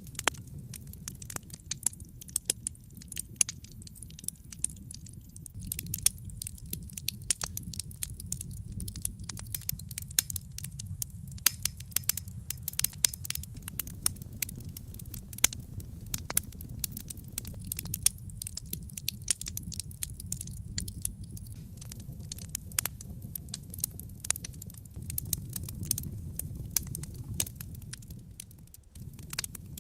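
Wood fire in a fireplace crackling: rapid, irregular pops and snaps over a low, steady rumble of the flames.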